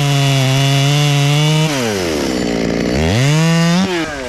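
Two-stroke chainsaw running at high revs in a cut through very hard Australian pine wood. About two seconds in, the engine note falls steeply, then climbs back up near the end.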